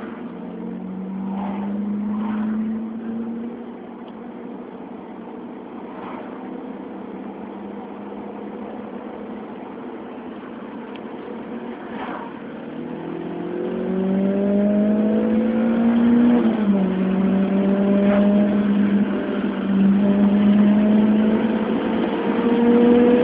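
Renault Clio 197's 2.0-litre four-cylinder engine through a Milltek aftermarket exhaust, heard from inside the cabin while driving. The note holds steady for about half the time, then rises in pitch and gets louder as the car accelerates. A sudden drop in pitch comes at a gear change, and the note then climbs again.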